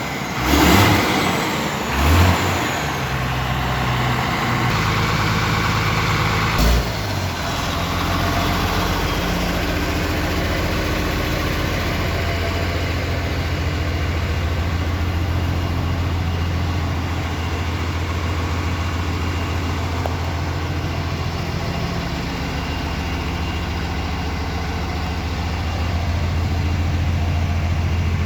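Tata LPT 2515 truck's diesel engine idling steadily, with two short loud swells in the first few seconds and a single sharp knock about seven seconds in.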